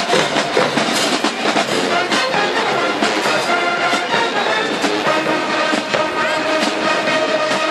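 Marching band brass section playing loudly, with trumpets and trombones holding notes over drum hits.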